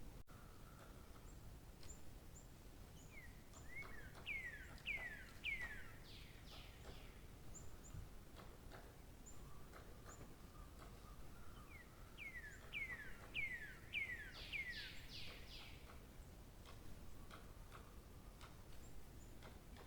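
A songbird singing two phrases, each a run of about seven quick downward-sliding whistled notes that grow higher and fuller toward the end, with a few faint chirps from other birds in between.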